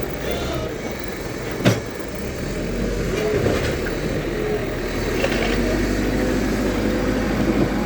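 Diesel engine of a JCB 3DX backhoe loader running steadily, with one sharp knock about two seconds in. The engine grows a little heavier after about two and a half seconds.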